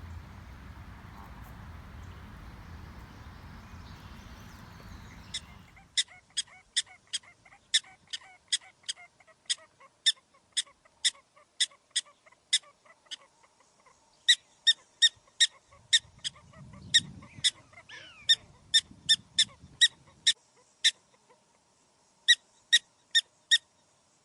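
A bird calling over and over in short, sharp, high-pitched calls, about two to three a second, in several runs with short pauses between them. The calls start after a few seconds of low, steady noise.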